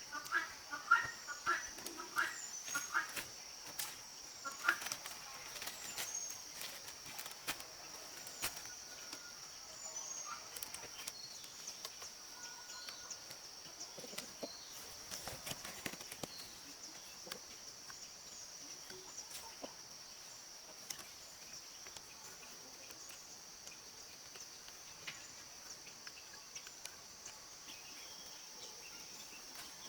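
A steady high-pitched insect chorus, with scattered knocks and clicks through the first several seconds and a few short bird chirps.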